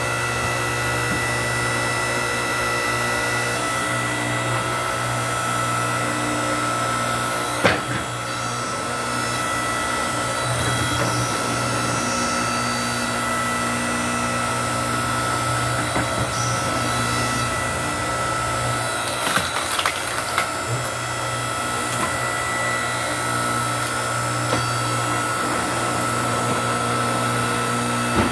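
A 7-ton log splitter's motor runs with a steady hum. A sharp crack comes about eight seconds in and a few more around twenty seconds, as logs split.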